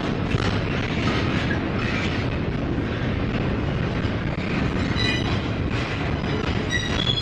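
Double-stack intermodal well cars rolling slowly past, a steady rumble of wheels on rail. Brief high squeals ring out about five seconds in and again near the end.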